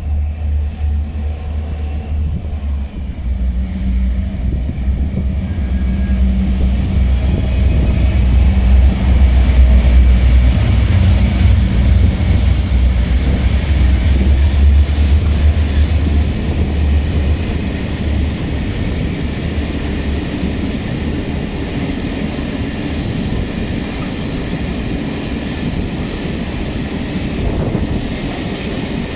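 Freight train passing: a heavy low rumble of locomotive and wagons, loudest about ten seconds in and easing after about eighteen seconds, with a thin high whine over it that shifts pitch a little twice.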